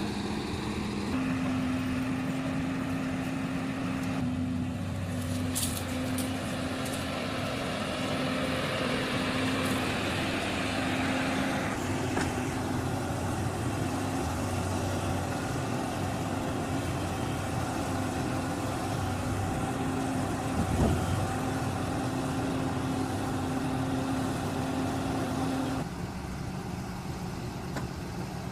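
Heavy vehicle engines running steadily with a constant hum, the sound changing abruptly several times. There is one short knock about 21 seconds in.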